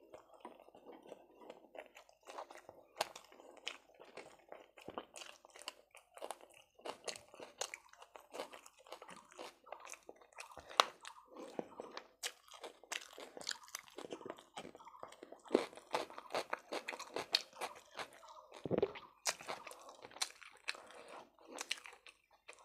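Close-miked eating: a person biting and chewing chicken kosha and toasted brown bread, with many sharp crunches and wet mouth sounds throughout.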